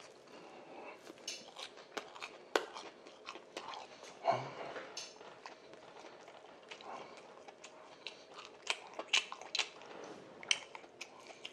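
A man biting into and chewing a plain Korean-style hotdog, a fried batter-coated sausage on a stick, with irregular sharp mouth clicks throughout.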